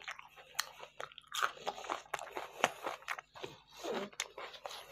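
Close-miked chewing and crunching of a mouthful of food, with many irregular crisp crackles and bites.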